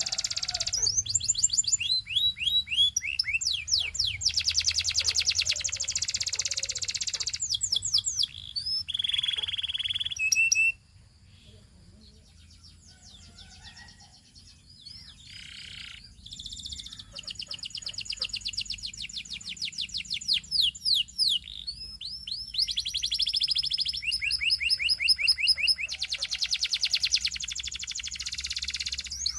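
Domestic canary singing: long rapid trills of repeated sweeping notes, with a held whistled note before the song breaks off suddenly about eleven seconds in. After a few seconds of soft calls, the trilling resumes.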